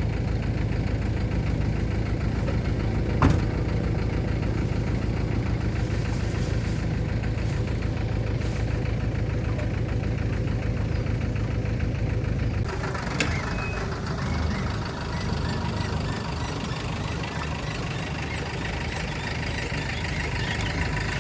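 A truck engine running steadily, with a sharp click about three seconds in. A little past the middle the deep rumble drops away and lighter mechanical clatter takes over.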